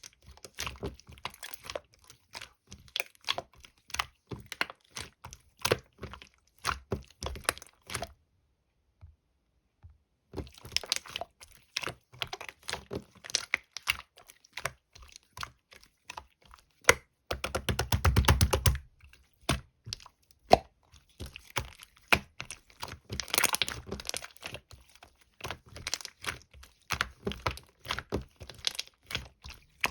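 Slime being squished and pressed by hand, giving a close, continuous run of small crackles and pops, with a pause of about two seconds about a third of the way in and a louder, thicker squishing burst a little past halfway.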